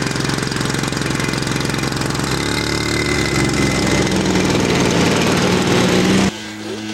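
Model aircraft piston engine running with rapid firing, its speed rising a couple of seconds in. Near the end it breaks off suddenly into a different, steadier engine drone.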